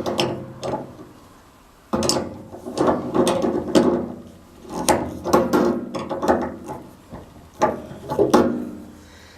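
Metal parts clicking, rattling and scraping in irregular bursts as the gas water heater's burner and pilot assembly is worked back into place.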